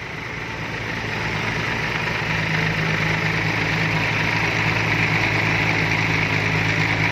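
Heavy diesel engine idling steadily, a low hum that grows a little louder over the first couple of seconds and then holds even.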